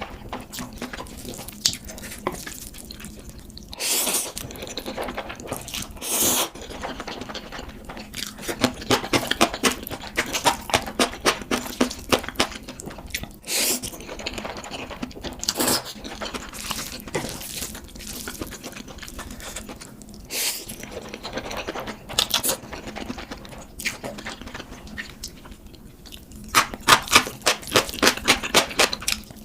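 Close-up eating sounds: instant noodles being slurped and chewed, with runs of rapid wet mouth clicks and several louder slurps.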